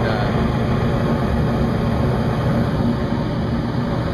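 York rooftop HVAC unit running steadily after its rewire, a continuous motor hum under a rush of air.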